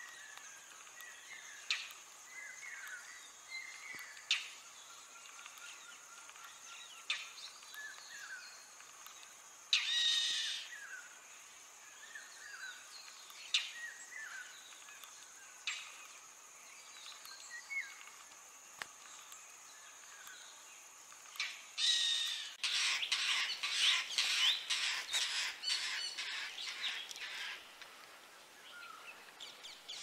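Indian roller calling: one harsh, rasping call about ten seconds in, then a long run of rapid, harsh chack notes lasting about five seconds near the end, the loudest part. Short chirps from small birds and a steady high-pitched tone sound in the background until the run begins.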